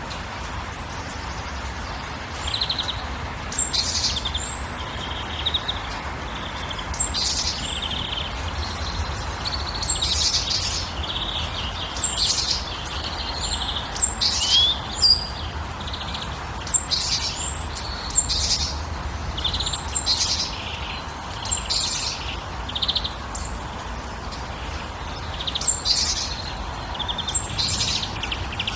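Small birds chirping and calling, short high calls repeating every second or two, over a steady background hiss.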